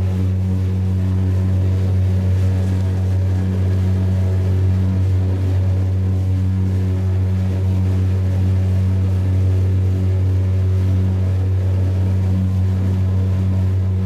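An engine running at a steady speed: a constant, unchanging low hum.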